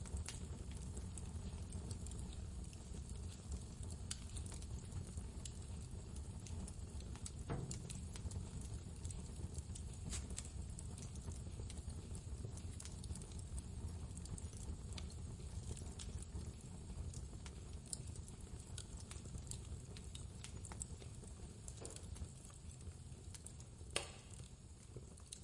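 Wood fire crackling with scattered pops over a steady low roar of blizzard wind. One sharper pop comes near the end as the sound starts to fade.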